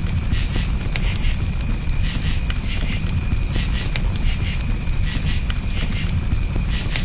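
Campfire crackling, with scattered sharp pops over a steady low rush, while crickets chirp in repeated pulses with a steady high trill.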